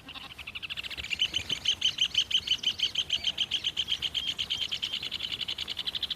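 Rufous hornero (red ovenbird) calling: a long, loud trill of rapid repeated notes, about ten a second, that swells and then stops near the end.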